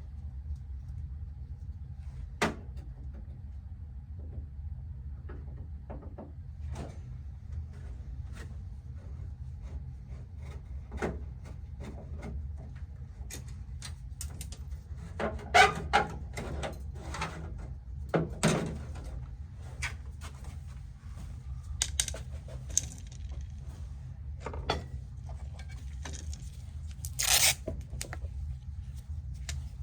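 Scattered knocks, clicks and light clatter of things being handled, over a steady low hum; the knocks come louder in a cluster about halfway through and again near the end.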